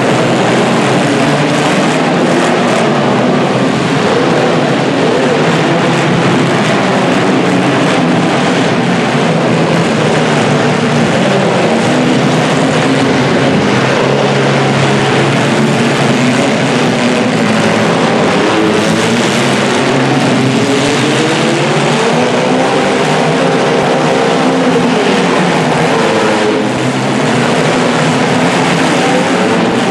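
Several demolition derby car engines running and revving at once, their pitches overlapping and rising and falling, with one engine revving up and back down about three-quarters of the way through.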